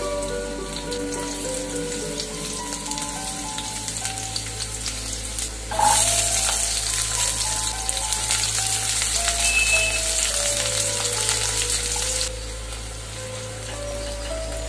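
Chopped garlic sizzling in hot oil in a pan, a steady frying hiss. About six seconds in, chopped onion goes in and the sizzling gets suddenly louder while it is stirred with a silicone spatula, easing off again near the end. A background music melody plays throughout.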